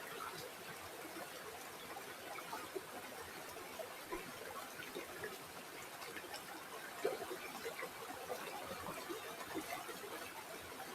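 River water flowing over stones: a steady trickling and babbling with many small irregular splashes, one a little louder about seven seconds in.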